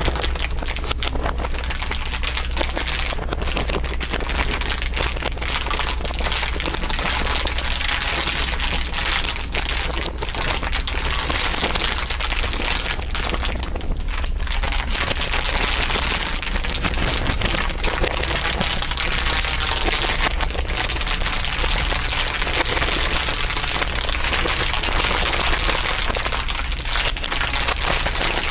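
Dense, layered crinkling, many overlapping crackles running on without a break, with a steady low hum beneath.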